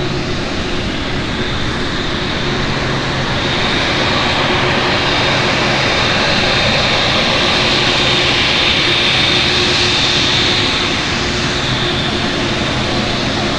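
Jet noise of a Boeing 787 airliner on its landing approach: engine noise swells to a peak with a high whine about nine seconds in, then eases off as the aircraft passes.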